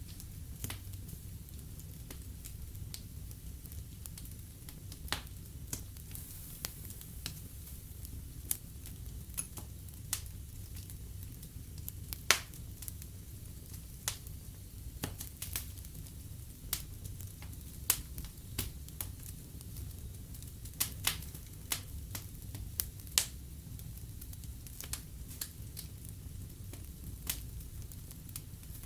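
Wood fire burning in a fireplace: irregular crackles and pops over a steady low rumble of flames, with one louder pop about 12 seconds in.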